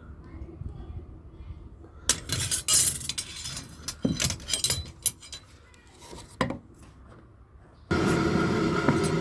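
Metal tools clinking and scraping against metal in a blacksmith's work: a dense clattering run, then a few single sharp clinks. Near the end a louder steady sound with a held pitch starts abruptly.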